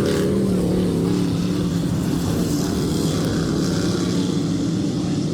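Dirt-track race cars running laps on the oval, their engines a steady loud drone whose pitch wavers slightly as the cars go through the turns.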